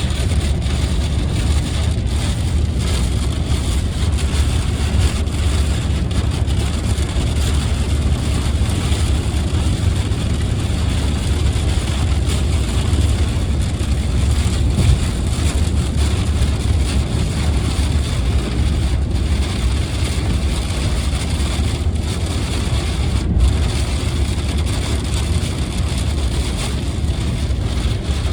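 Inside a car driving in light rain: a steady low rumble of road and engine noise with an even wet hiss over it from tyres on the wet road and the rain.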